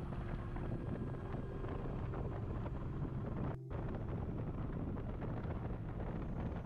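Wind rushing over an action camera's microphone on a moving Kawasaki Vulcan motorcycle, over the bike's steady engine drone. The sound cuts out for an instant about halfway through.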